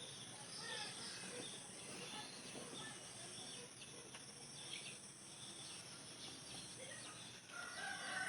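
Faint outdoor ambience: a steady high-pitched insect drone with short, scattered bird chirps.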